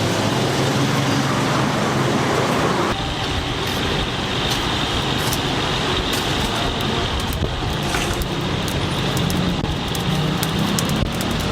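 Stir-frying in a wok over a strong flame: a steady roar with sizzling, and from about three seconds in, many short crackles and clicks.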